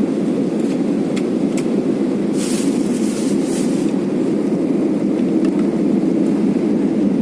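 Steady low rumble of cabin noise inside a passenger airplane in flight, with two brief faint hisses near the middle.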